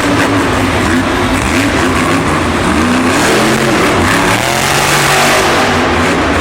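Monster truck supercharged V8 engines revving hard, their pitch rising and falling again and again over a loud steady din.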